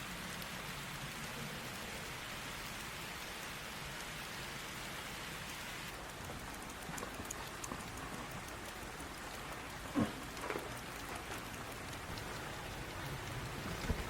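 Steady hiss of a snowstorm, sounding like rain falling on a surface, with one brief knock about ten seconds in.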